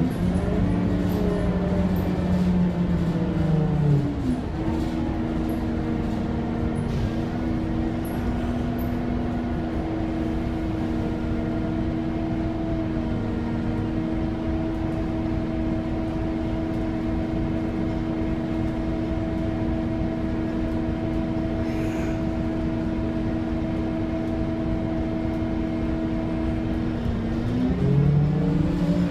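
Scania K230UB city bus's 9.3-litre DC9 five-cylinder diesel engine running under way. Its pitch changes about four seconds in, holds steady for over twenty seconds, then drops and climbs again near the end.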